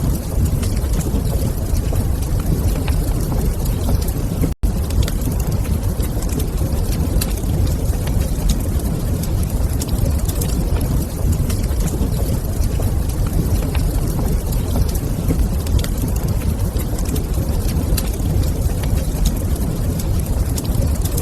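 Fireplace fire burning: a steady low rumble with scattered light crackles. The sound drops out for an instant about four and a half seconds in.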